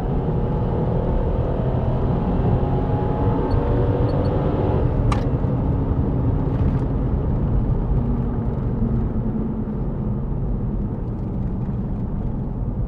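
Suzuki Grand Vitara's 3.2-litre V6 petrol engine at full throttle, heard from inside the cabin with road noise, climbing steadily in pitch through a hard acceleration run. A few faint short beeps come near the top of the climb, then a sharp click about five seconds in. After that the engine note drops and runs lower and steadier as the car eases off.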